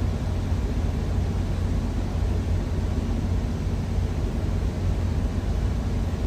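Steady low rumble of an idling engine, even and unbroken, with a faint hiss above it.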